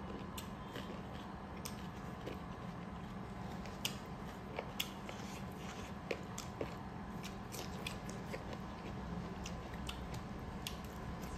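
Two people chewing mouthfuls of chicken curry and rice, with irregular sharp mouth clicks and smacks over a steady background hum.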